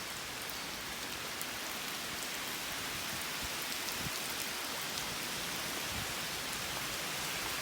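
Steady rain falling, with scattered louder single drops landing close by.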